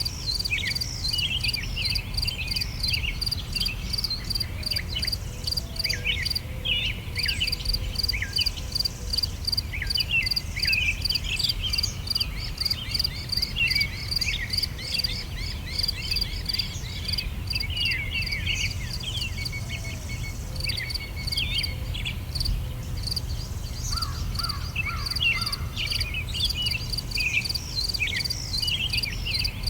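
Summer outdoor ambience: songbirds chirping and twittering in quick, sweeping notes, over a high insect chirp that pulses steadily several times a second. A steady low rumble runs underneath.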